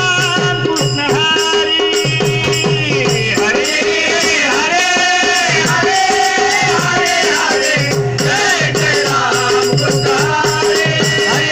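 Devotional bhajan music: a sliding, sustained melody over a steady held drone note, with a rattling percussion keeping a regular beat.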